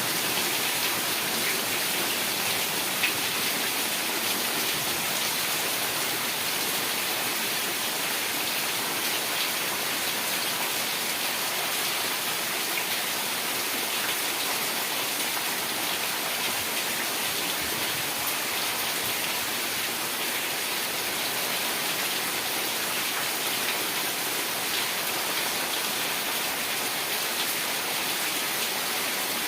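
Heavy rain falling steadily, an even hiss of many drops with a few sharper drop ticks, one a little louder about three seconds in.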